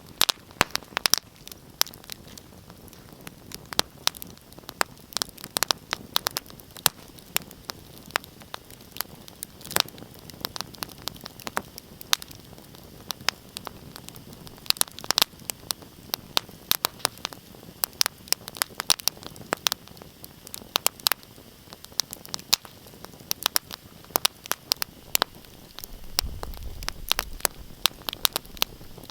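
Wood fire crackling in a fireplace: a steady run of sharp pops and snaps over a soft hiss, with a low rumble near the end.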